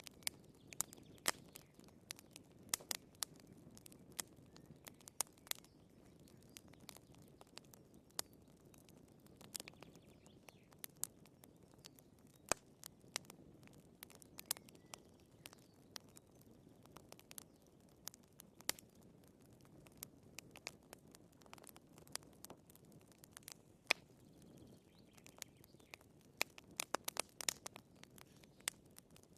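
Firewood burning in a fireplace: irregular sharp crackles and pops over a faint low rumble of the flames, with a quick cluster of crackles near the end.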